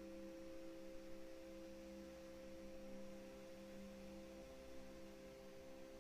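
Faint background drone of several steady, pure held tones, like a singing-bowl soundscape; one tone fades out about halfway through while the others hold.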